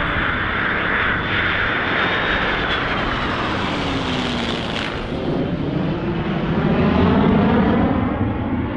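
Heritage Flight aircraft, the F-22 Raptor and the P-51 Mustang, flying past with continuous engine noise. A whine falls in pitch midway as they pass, and the sound is loudest about seven seconds in, then begins to fade near the end.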